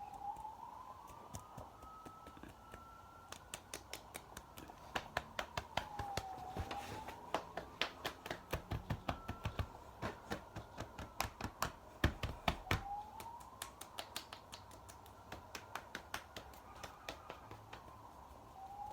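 Rapid, close-miked ASMR clicks and taps, several a second, thickest through the middle, over a faint tone that slowly slides up and down.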